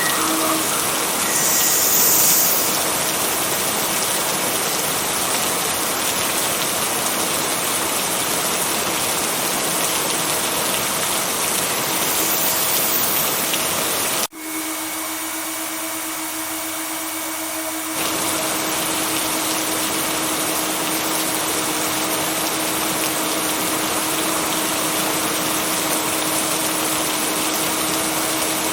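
Steady heavy rain, an even hiss, with a faint steady tone beneath it. About halfway through the sound drops out for an instant at a splice in the track, and the lower part of the rain is thinner for a few seconds before it comes back in full.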